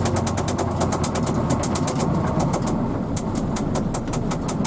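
Hino AK bus running, its steady engine and road noise heard from inside the cabin, with a fast, irregular ticking rattle throughout.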